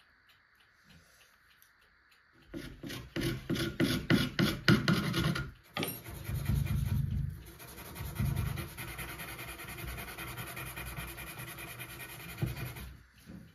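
Rasping or rubbing on a hard surface: a burst of quick, loud strokes for about three seconds, then a steadier scraping noise with a fast, even pulse that stops shortly before the end.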